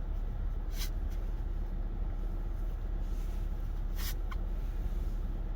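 Steady low background hum, with two brief rustles, one about a second in and one about four seconds in.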